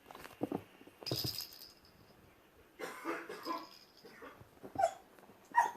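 Two young kittens playing together, making a string of short, irregular scuffling noises and small sounds.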